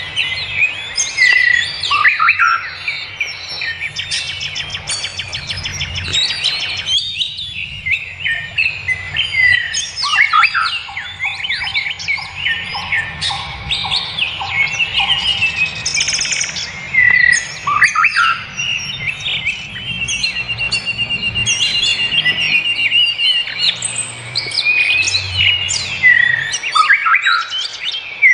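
Several forest birds calling and singing at once, a dense mix of chirps, trills and whistles.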